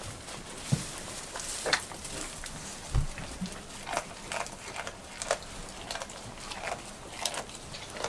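Rain falling steadily, with irregular drops tapping sharply close by, a few each second.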